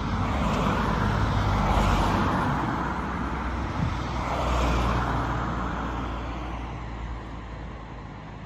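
Road traffic: two cars pass close by, the first about two seconds in and the second near five seconds, each a swelling rush of tyre and engine noise with a low rumble, before the noise dies away.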